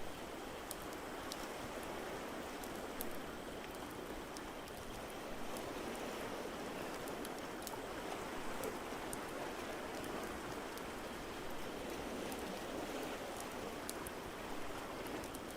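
Layered ambience track: an even, steady rush of water noise with sparse small fireplace crackles scattered through it.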